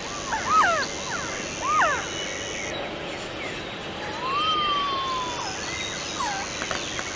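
Resplendent quetzal calling: a run of short arching whistled notes, then after a few seconds one longer whistle that rises and then falls, with a couple more notes near the end. Beneath it is forest ambience with a steady high buzz.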